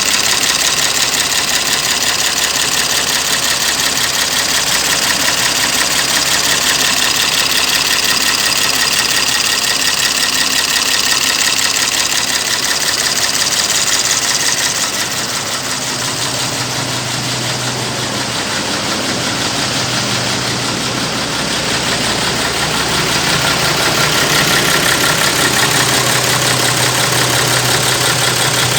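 Iveco 420 hp diesel truck engine idling steadily, a little quieter for a few seconds around the middle.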